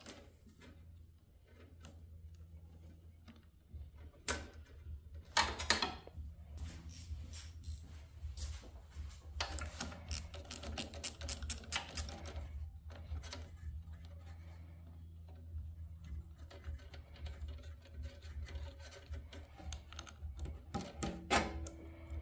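Socket wrench ratchet clicking in short runs while bolts are turned, with scattered clinks and knocks of metal tools and hardware; a fast run of ratchet clicks comes about halfway through.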